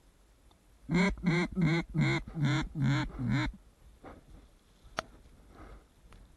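A quick series of about eight loud duck quacks lasting about two and a half seconds, in the pattern of a mallard hen's call. A single sharp click follows about five seconds in.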